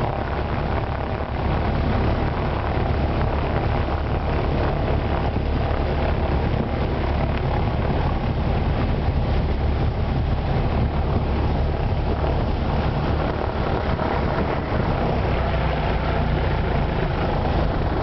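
Single-engine light aircraft's engine and propeller running steadily, heard from inside the cabin as a loud, even drone.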